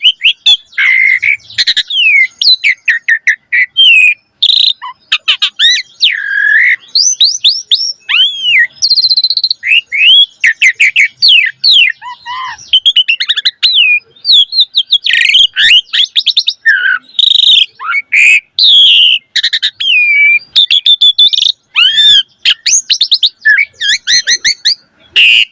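Javan pied starling (jalak suren) singing without a break: a loud, varied stream of whistled glides, fast series of short rising notes and harsh scratchy chatter.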